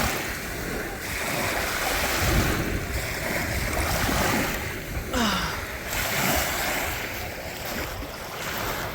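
Lake Erie waves breaking and washing up the beach, the surf swelling and easing several times over.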